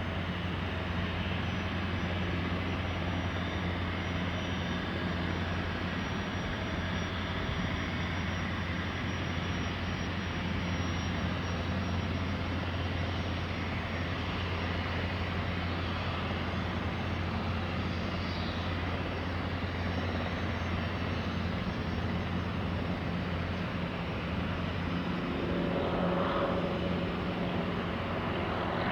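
Airplane engine noise at an airport, a steady drone that grows a little louder near the end.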